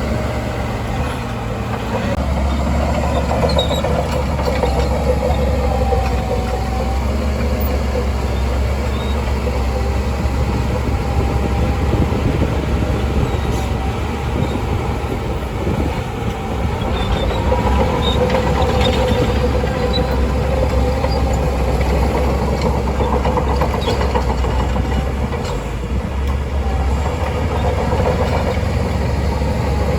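Shantui DH17C2 crawler bulldozer working: its diesel engine gives a steady low drone with a wavering whine above it. The drone eases briefly about halfway through and again near the end.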